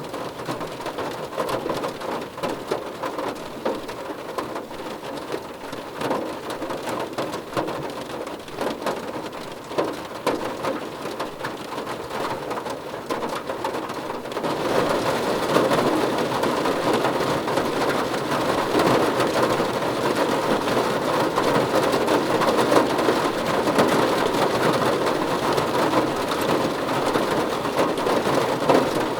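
Rain falling on a car roof, a dense patter of individual drops over a steady hiss. About halfway through, the rain turns heavier and louder.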